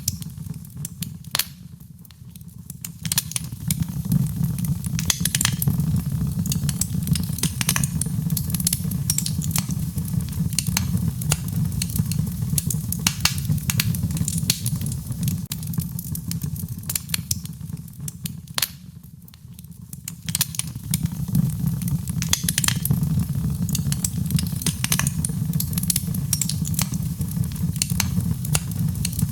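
Wood fire crackling, with frequent sharp pops and snaps, over a steady low rumble of rain. The sound thins out briefly about two seconds in, and again around nineteen seconds.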